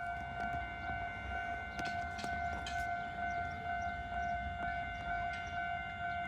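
A continuous, steady electronic warning tone at a railway station, holding one pitch, over a low rumble, with a few sharp clicks about two seconds in.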